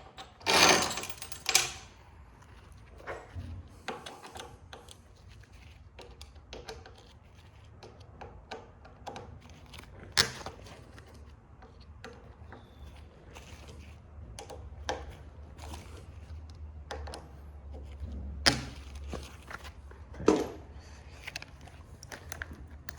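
Metal machine parts and hand tools being handled during disassembly: scattered clicks, clinks and knocks, with a louder rattling noise about a second in.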